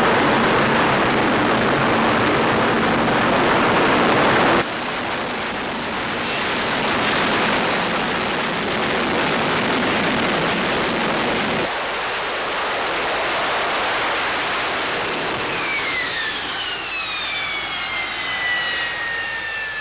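Harrier jump jet's Pegasus turbofan running loud during a hovering vertical landing, its jet noise changing character about four seconds in and again past the halfway mark. In the last few seconds several high whines glide steadily down in pitch.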